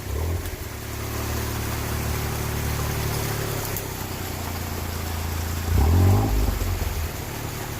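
A vehicle engine running steadily at low revs while driving, with a brief rev about six seconds in.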